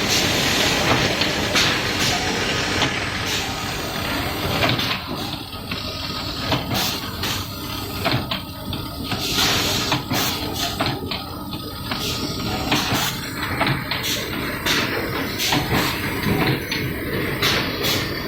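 Automatic soldering machine running, a steady mechanical noise broken by frequent irregular clicks and knocks.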